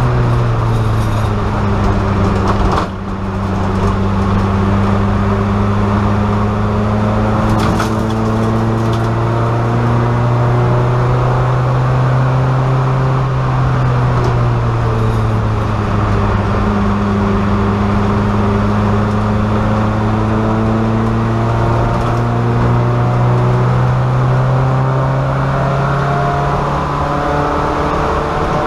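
VW Golf race car's engine heard from inside the stripped, roll-caged cabin, running hard under load. Its note drifts slowly up and down with the revs, with a brief drop in loudness about three seconds in.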